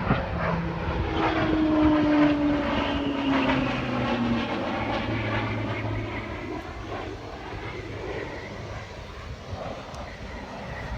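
Airplane flying past, its engine note sliding down in pitch as it goes by. It is loudest about two seconds in, then fades away.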